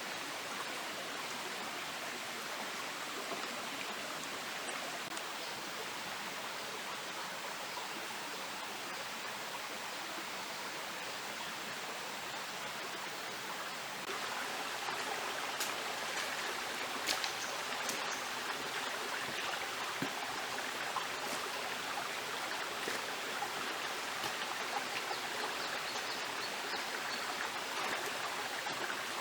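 Steady rushing of flowing water, stepping up a little in level about halfway through, with a few faint clicks.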